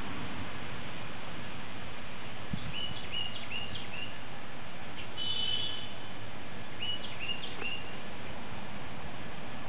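A small bird chirping in quick runs of three or four short high notes, twice, with a brief higher trill between them, over a steady background hiss.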